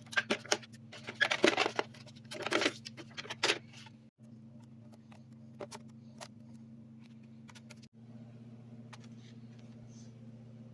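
Small hard parts and tools being handled, clattering and clicking, busiest in the first four seconds and then a few scattered ticks, over a steady low hum.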